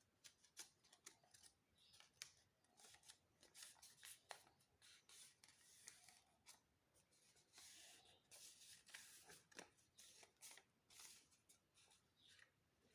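Faint crinkling and rustling of a sheet of paper being folded and creased by hand into an origami flapping bird, with many small irregular crackles.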